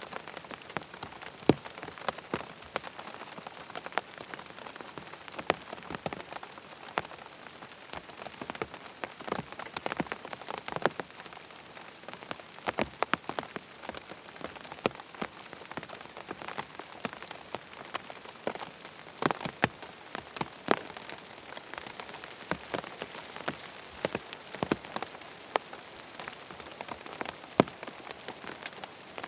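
Steady rain falling, with many sharp, irregular drop ticks over an even hiss.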